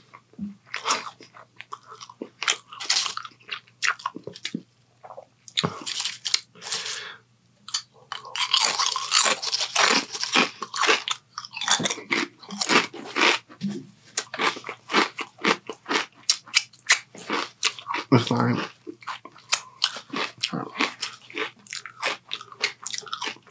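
Close-up eating sounds: a man biting and chewing a sandwich with crunching, in uneven runs of crackly bites and chews, busiest about a third of the way in.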